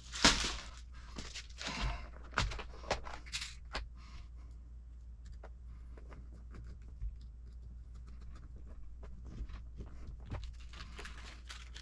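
Small metal hardware and hand tools being handled at a workbench: several sharp clicks and taps in the first few seconds, then faint, occasional ticks.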